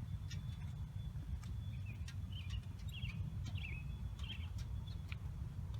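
A bird chirping several times in short calls, over a low steady rumble.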